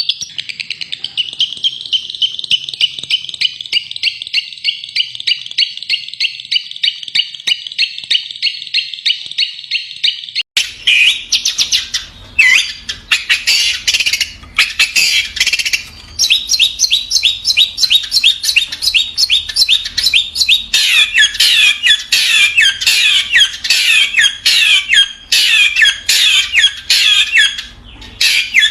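Long-tailed shrike (cendet) singing. It begins with a fast, even run of repeated chirping notes; about ten seconds in there is an abrupt change to louder, more varied bursts of rapid chattering separated by short pauses.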